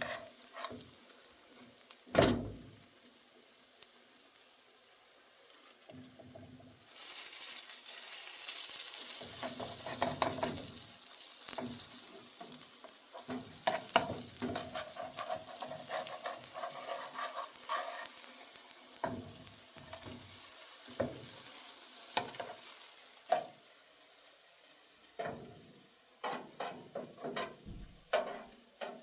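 Food frying in a pan: sizzling that starts about a quarter of the way in and dies down after about twenty seconds, with a utensil stirring and knocking against the pan throughout.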